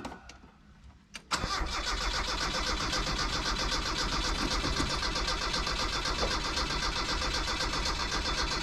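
1979 Chevy LUV 4x4's engine running loud and steady with a fast, even pulse, coming in suddenly about a second in.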